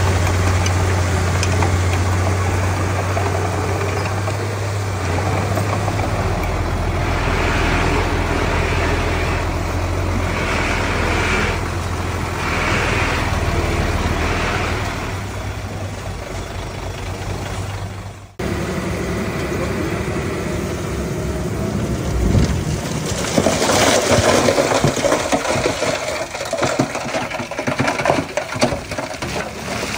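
Diesel engines of heavy earthmoving machinery running steadily with a low hum. An abrupt cut comes about two-thirds of the way in, followed by a noisier, uneven machine sound with frequent sharp peaks.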